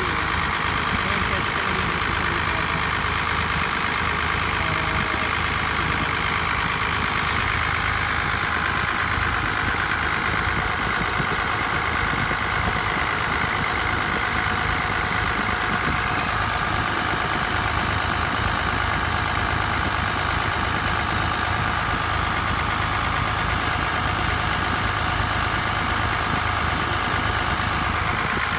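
Truck engine idling steadily, a constant low hum with an even, higher-pitched whir layered over it, while the air conditioning is being recharged.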